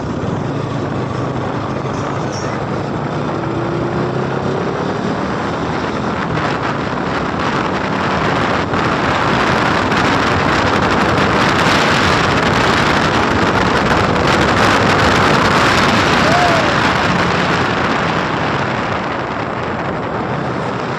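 Motorcycle riding at speed with wind rushing over the microphone: a steady, loud rush of air and road noise that swells through the middle and eases a little near the end.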